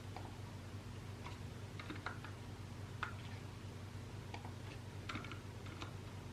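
Typing on a mechanical keyboard: scattered, irregular keystrokes in small clusters, over a steady low hum.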